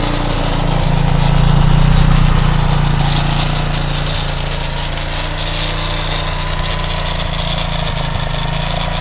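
Freshly re-ringed and honed 230 cc motorcycle engine idling steadily. It swells slightly about two seconds in, then settles back.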